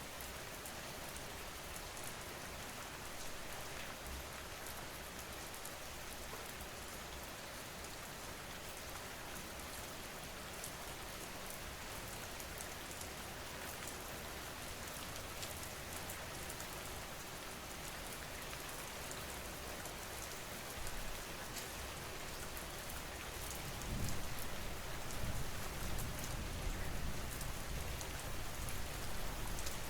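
Steady rain falling, a continuous even hiss of drops, from a sleep rain-sound recording. About four-fifths of the way through, a low rumble comes in and makes it louder.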